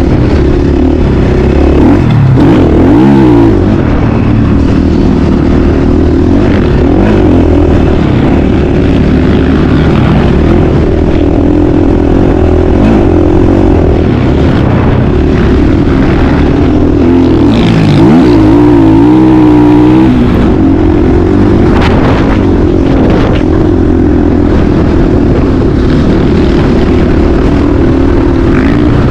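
Motocross dirt bike engine running loud under riding, its revs rising and falling as the rider works the throttle and gears, with clear dips and climbs in pitch about two seconds in and again near eighteen seconds.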